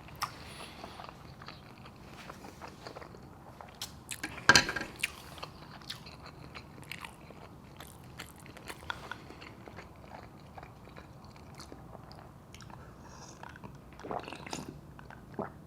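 A person chewing and eating close to the microphone, with many small wet mouth clicks throughout. There is one loud sharp click about four and a half seconds in and a burst of louder chewing near the end.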